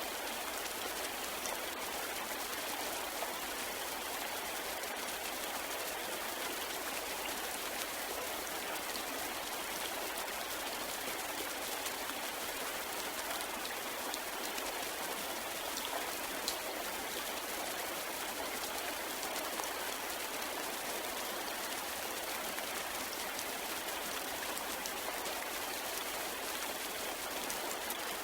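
Steady rain falling: an even, unbroken hiss with faint scattered drop taps.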